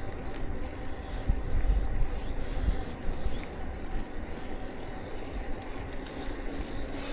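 Steady low rumble of wind on the microphone and rolling noise from a bicycle ride, with a few faint ticks.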